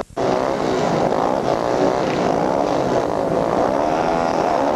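Several motorcycle engines running together, idling and revving unevenly with wavering pitches. The sound drops out for a split second at the very start.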